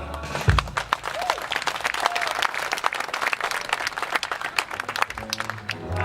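Live audience applauding as the band's song ends, dense clapping through most of the stretch. Near the end, held instrument notes come back in.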